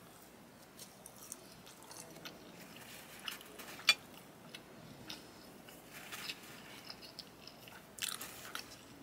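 A person chewing a mouthful of garlic Texas toast close to the microphone: scattered soft, crunchy and wet mouth clicks, the sharpest about four seconds in and a small cluster near the end.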